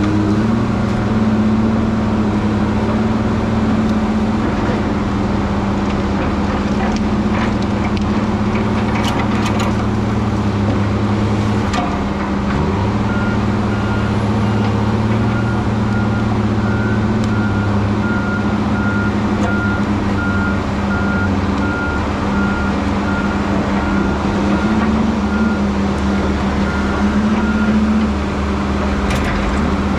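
Heavy diesel machinery engine running steadily. About halfway through, a backup alarm starts beeping at one pitch, about once a second, and stops shortly before the end.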